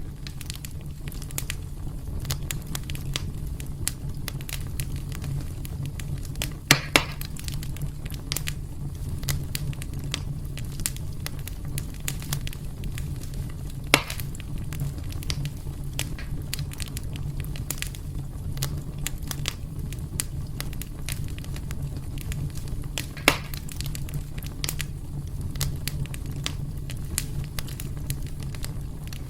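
Wood fire burning in a fireplace: a steady low rumble of flames under constant small crackles, with a few louder pops, two close together about seven seconds in and single ones near the middle and later on.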